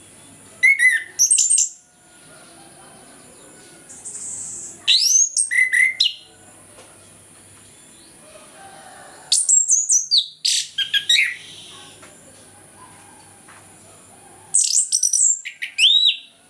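Chestnut-capped thrush (anis kembang) singing in full song: four loud phrases of fast, sweeping whistled notes, each one or two seconds long, with pauses of a few seconds between them.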